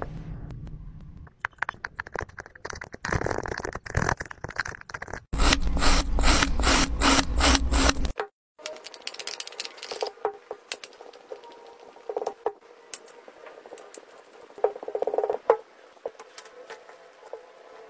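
Slime being handled, giving sticky crackling clicks and small pops in several short clips; a louder, crunchier stretch comes in the middle, followed by quieter, sparse clicking.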